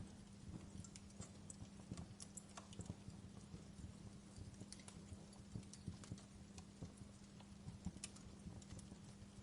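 Wood fire burning in a fireplace, crackling with many small irregular pops and snaps, over a faint steady low hum.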